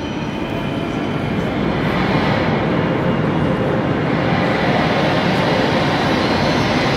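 Electric train at a station platform: a steady loud rumble with a faint high whine, growing louder over the first two or three seconds and then holding.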